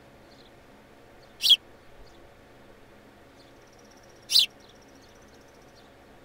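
Young bird giving two short, loud calls about three seconds apart, with faint chirping in between.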